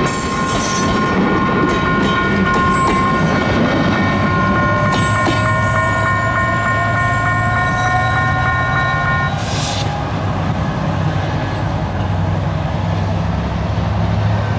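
Passenger train coaches rolling past and away, with steady rail noise and wheel clatter. A steady tone of several pitches sounds alongside and cuts off suddenly about nine seconds in.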